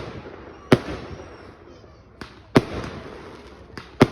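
Aerial firework shells bursting overhead: three loud bangs, each trailing off in a rumbling echo, with two lighter pops between them.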